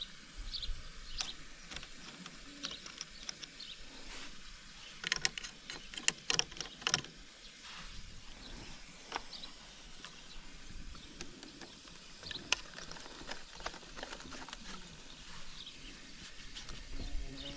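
Quiet outdoor ambience with faint, scattered high chirps and a cluster of sharp clicks and taps about five to seven seconds in; no engine is heard running.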